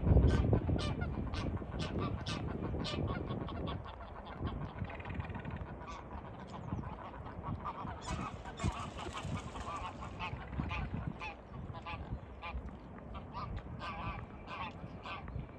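A flock of birds calling, many short calls in quick succession that thin out after about four seconds.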